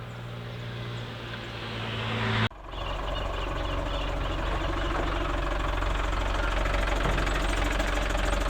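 Vehicle engine running and getting louder, then an abrupt break about two and a half seconds in, after which a louder, deeper engine runs steadily.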